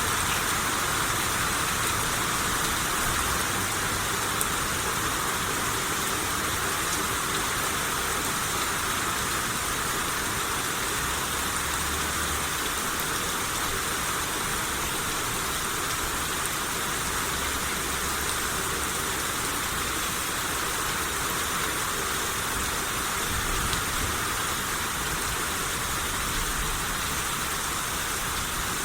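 Steady rain shower, an even hiss of rain falling on surfaces with no let-up.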